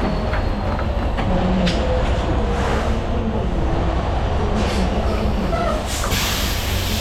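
Steady low rumble of an idling semi-truck diesel engine, with a faint wavering whine and a few light clicks.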